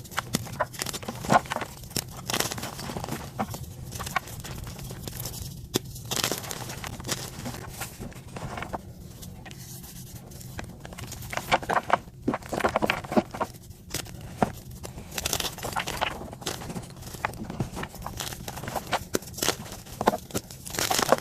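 Dyed gym chalk being crushed: dense, irregular crunching and crackling as the chalk pieces break and crumble, with a steady low hum beneath.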